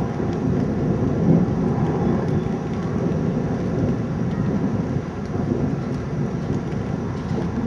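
Thunder rumbling steadily over falling rain during a severe thunderstorm.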